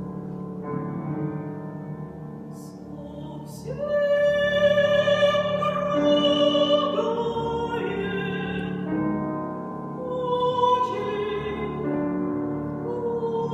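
Female operatic voice singing with piano accompaniment. The piano plays alone at first, then the voice comes in about four seconds in with long, held notes with vibrato.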